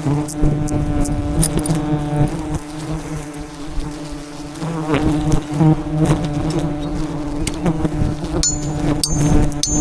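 Dense, steady buzzing of a swarm of wild honeybees around a large hive, with a few sharp clicks near the end.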